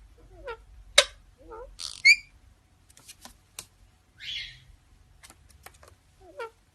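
Parrot vocalizing: sharp clicks, short warbling whistles and harsh squawks, in a pattern that starts over near the end.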